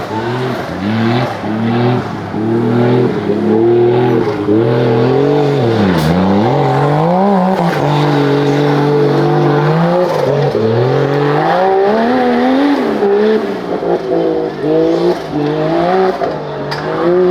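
Off-road 4x4's engine revving hard, its pitch climbing and dropping again and again as the throttle is worked, with a steadier held stretch about halfway through. A sharp knock about six seconds in.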